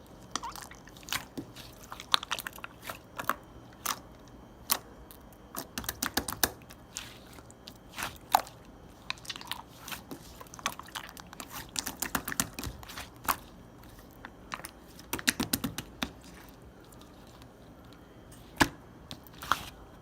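Slime being squeezed, stretched and pressed by hand, giving irregular sticky clicks and small pops as air pockets burst.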